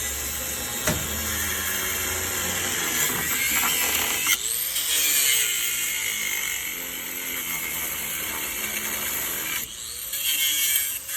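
A power saw cutting through the metal of a semi-truck cab, a loud steady rasping that breaks off briefly about four seconds in and again near the end.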